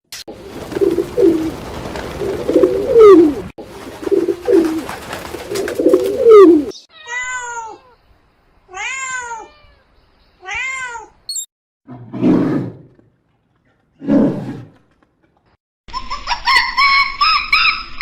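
A run of different animal calls: repeated low calls over a noisy background, then three short pitched calls that rise and fall, two low calls, and a buzzing insect starting near the end.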